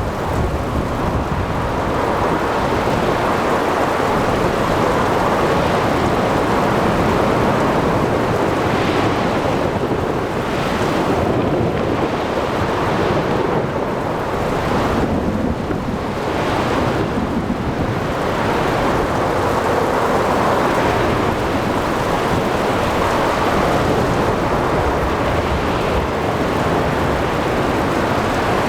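Sea thunderstorm: steady heavy rain, rumbling thunder, blowing wind and splashing waves in a continuous dense wash. Several brief rushing swells rise out of it between about 9 and 18 seconds in.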